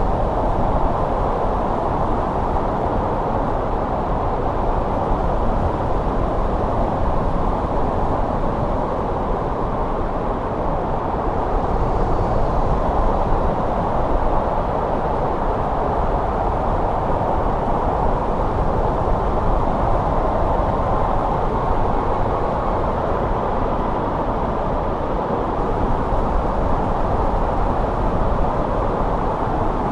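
Steady winter wind, a low, even rushing that gently rises and falls.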